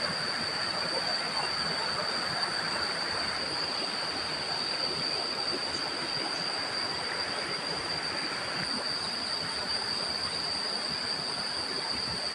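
A steady high-pitched insect drone over a faint even hiss, cutting off at the very end.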